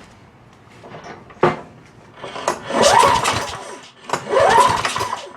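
Lawn-Boy mower's recoil starter pulled twice, each pull a whirring crank that rises and then falls in pitch, after a single click about a second and a half in. The engine turns over without firing because the ignition has no spark.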